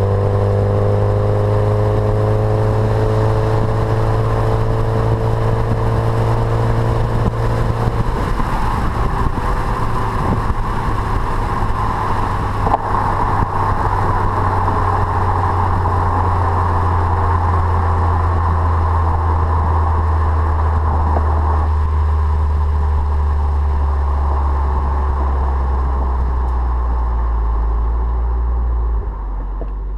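Mitsubishi Lancer Evolution X's turbocharged 2.0-litre four-cylinder running through a catless turbo-back Milltek exhaust, a steady low drone whose pitch eases slowly downward. The note changes about eight seconds in and drops in level just before the end.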